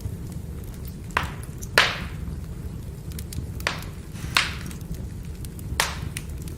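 Burning firewood crackling: a steady low rumble of flames with about five sharp pops and smaller ticks, the loudest pop about two seconds in.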